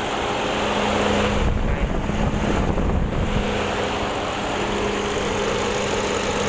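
Engine idling roughly with a misfire, one cylinder not firing, so the engine shakes. About a second and a half in, a low rumble on the microphone rises over it for under two seconds.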